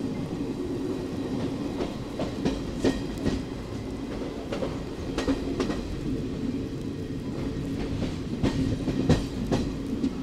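Indian Railways passenger train running on a curve, heard from an open coach doorway: a steady rumble of wheels on rail, broken by irregular sharp clicks, some in quick pairs, as the wheels cross rail joints.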